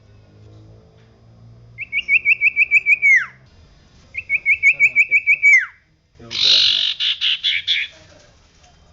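Common iora (cipoh) singing: two quick trills of about ten clear, evenly repeated notes, each ending in a falling slur, then a harsh rattling chatter of rapid pulses.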